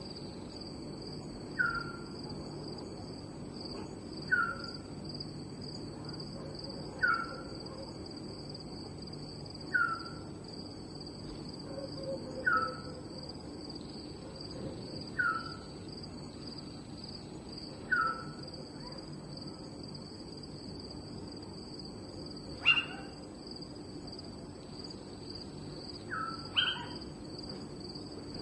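Night ambience: a steady, high-pitched insect chorus, over which a short falling call repeats about every two and a half seconds. Near the end, two louder, sharper calls break in.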